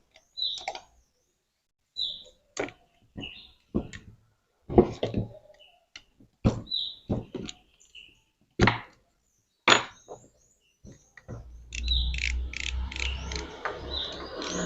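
Scattered clicks and knocks of a wrench and metal parts being handled while a freezer fan motor is taken apart, with a small bird chirping now and then in the background. About eleven seconds in, a steadier low noise joins the clicks.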